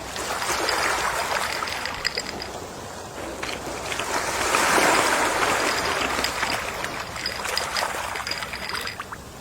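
Gentle sea waves washing onto the shore in slow swells, the largest building to a peak about halfway through, with small crackles of water running back.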